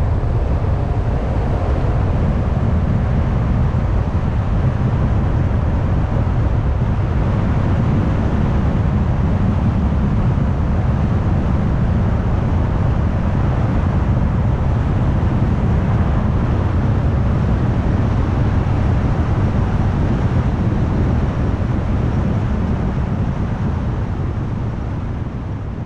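Car driving: a steady low rumble of tyre and engine noise. It begins to fade near the end.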